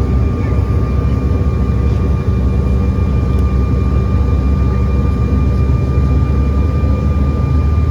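Steady airliner cabin noise: the regional jet's engines and airflow make a loud, even low rumble with a constant high whine on top.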